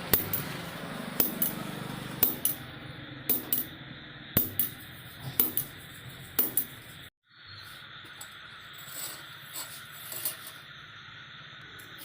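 Light metallic clinks and taps, a dozen or so and often in quick pairs, from small metal parts being handled, over a steady background hiss. The sound cuts out briefly about seven seconds in.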